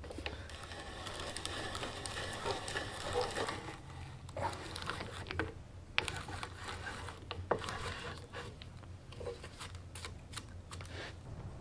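Hand woodworking at the bench: a scratchy rustling and scraping, then scattered sharp clicks and light wooden taps.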